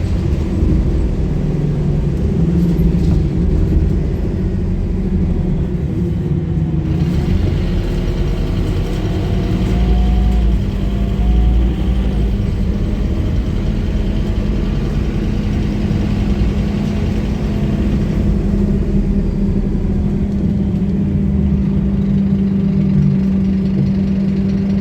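Scania K230UB bus's nine-litre five-cylinder diesel engine running with a steady low rumble and hum. A faint whine rises and falls a few times about a third of the way in, and the engine note then holds even.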